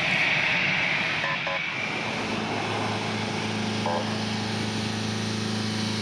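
Jet engines of a taxiing Airbus A321 airliner: a steady rushing noise whose high hiss fades over the first two seconds, leaving a low steady hum.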